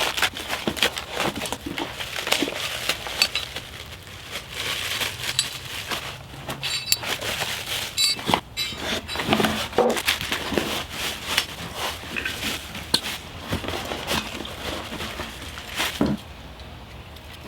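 Irregular handling noises: frequent clinks and knocks mixed with crackling, crinkling rustles.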